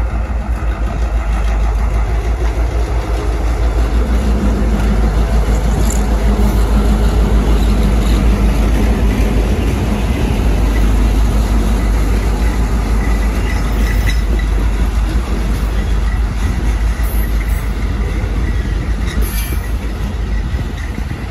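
Freight train passing close by: two Chicago SouthShore & South Bend diesel locomotives go by with a steady engine rumble, then the train's tank and hopper cars roll past on the rails.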